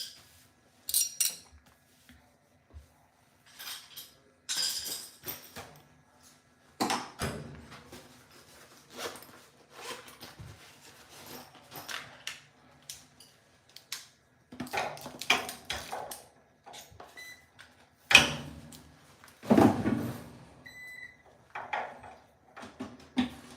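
Irregular clinks, knocks and scrapes of metal dryer parts and tools being handled, with a few louder thuds. A short high beep sounds about three-quarters of the way through.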